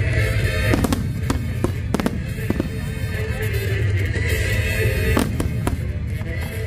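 Fireworks display: shells bursting with sharp bangs, five in quick succession in the first few seconds and two more about five seconds in. Music plays throughout over a steady low rumble.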